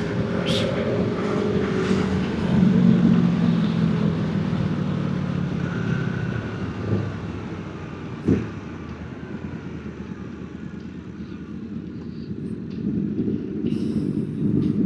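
Road vehicle noise with a steady rushing background. A motor's hum swells about two and a half seconds in and fades after about six seconds. A single sharp knock comes a little after eight seconds.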